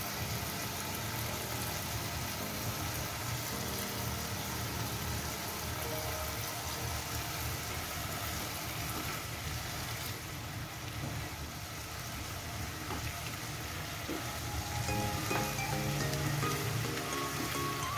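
Green beans and kikil sizzling in a wok as they are stirred and tossed with a spatula. Soft background music runs underneath and becomes more noticeable near the end.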